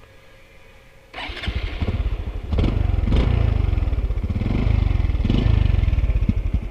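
Honda CT125's single-cylinder four-stroke engine starting on its stock exhaust about a second in, catching at once and then running with a fast, even putter and a few short surges in level.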